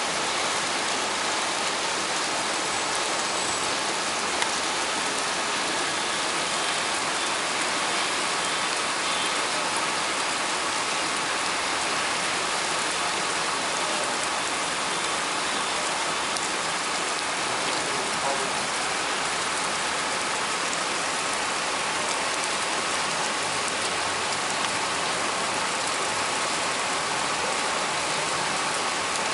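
Heavy, steady rain falling and splashing on surfaces.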